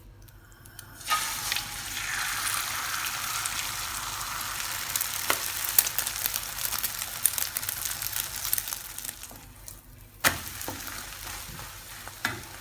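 Beaten egg sizzling in hot oil in a frying pan, the hiss starting sharply about a second in as the egg goes in, with small clicks and scrapes of a utensil. It dies down near the ten-second mark, then starts again with a sharp knock.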